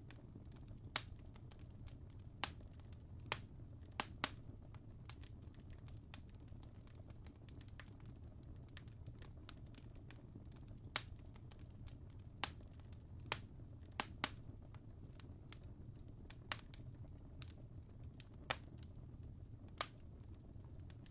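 Fireplace fire crackling: sharp, irregular pops and snaps over a steady low rumble.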